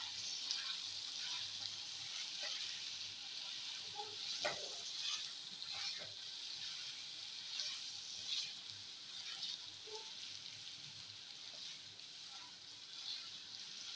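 Diced potatoes and onions frying in oil in a pan, a steady faint sizzle, with a few soft scrapes of a silicone spatula as they are stirred.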